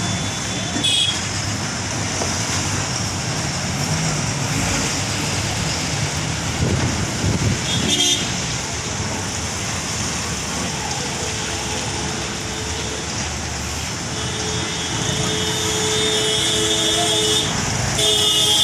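Steady road traffic with vehicle horns: short toots about a second in and again about eight seconds in, then a longer horn blast held for a few seconds near the end.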